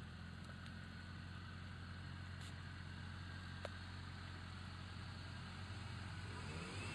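Off-road 4x4's engine running steadily at low revs as it creeps across the grass, with a few faint clicks.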